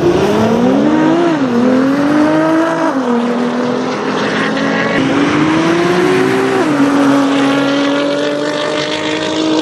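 Nissan GT-R and Audi sports cars accelerating hard in a drag race, engine note climbing and dropping sharply at each quick upshift, about 1.5 s and 3 s in and again near 6.5 s, then holding steady at speed.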